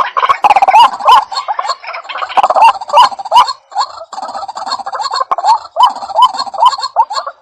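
White-breasted waterhen (ruak-ruak) calling: a fast, loud run of repeated rising notes, about two or three a second, with a brief dip in the calling a little over halfway through.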